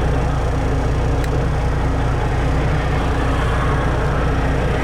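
A truck's engine and road noise heard from inside the cab while driving, a steady low drone.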